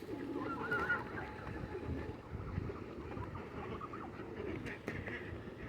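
Waterfowl calling close by, several calls overlapping and repeating.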